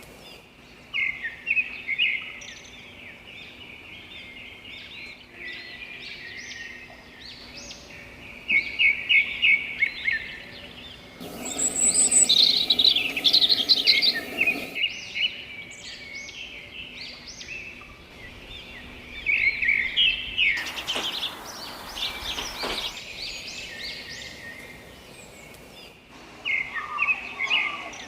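Small songbirds chirping and singing, several at once, with short calls throughout and louder bursts of rapid, repeated notes every few seconds.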